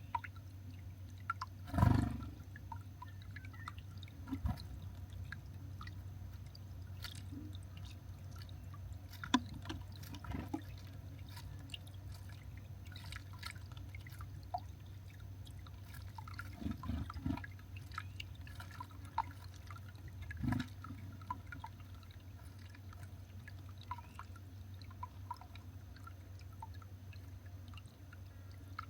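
Garden bird-feeder ambience: a steady low hum with many scattered small ticks and clicks, and a few soft thumps, the loudest about two seconds in.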